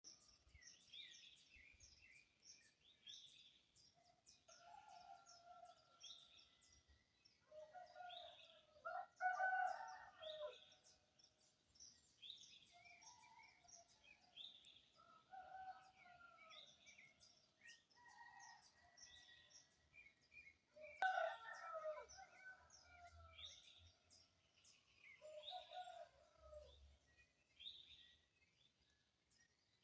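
Dawn birdsong: small birds chirp again and again in quick high notes, while roosters crow about seven times at a distance, loudest about a third of the way in and again past two-thirds.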